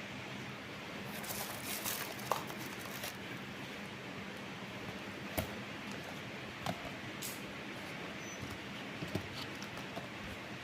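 Sogo 56-inch industrial ceiling fan running: a steady rush of air with a low motor hum, and a few light ticks scattered through it.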